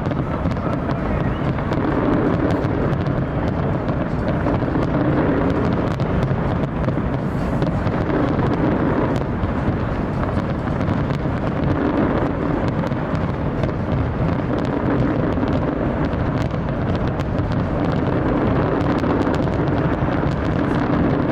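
A fireworks display going off continuously: a steady low rumble of bursts with many sharp crackles and cracks over it.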